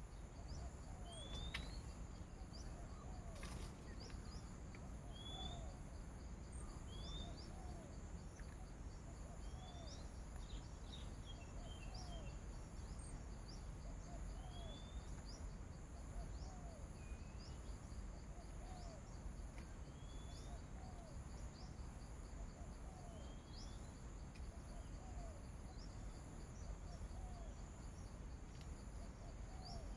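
Rural outdoor ambience: small birds give scattered rising chirps over a steady high insect drone. A short, low call repeats about once a second throughout.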